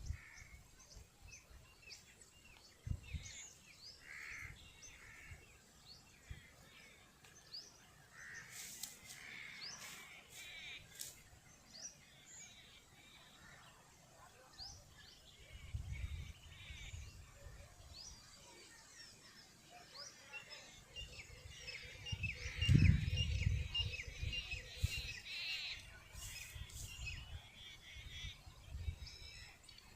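Birds calling outdoors: scattered short high chirps and caws, with a fast, even trill in the second half. Intermittent low rumbling noise underneath is loudest about two-thirds of the way through.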